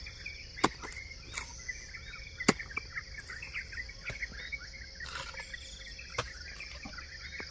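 Several sharp strikes of a hoe into the soil, irregularly about a second apart, with birds chirping and insects droning steadily in the background.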